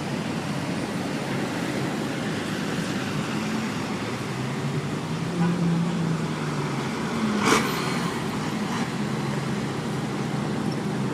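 Steady low motor hum over an even background noise, with one sharp click about seven and a half seconds in.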